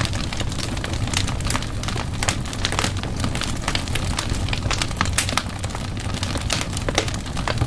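Wood fire in a fireplace crackling: many irregular sharp pops and snaps, a few of them louder, over a steady low rumble of the flames.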